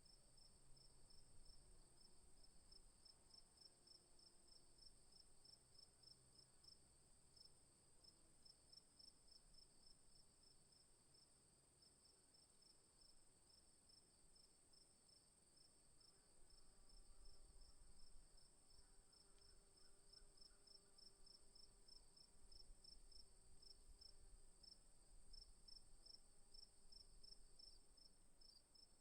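Faint insect chorus of crickets: a rapid, even pulsing chirp with a steady high hum above it.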